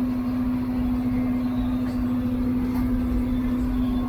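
John Deere 4440 tractor's six-cylinder turbo diesel running steadily while pulling a cultivator through the field: an even drone with a constant hum.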